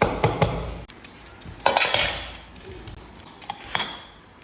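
Hard objects clattering and clinking in three short bouts: at the start, about two seconds in, and near the end. The last bout carries a brief ringing tone.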